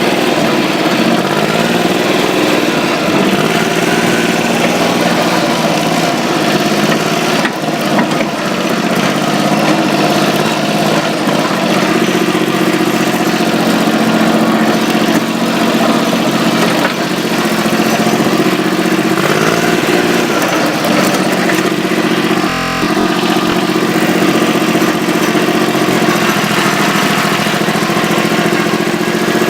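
An engine running steadily, its pitch drifting gently up and down.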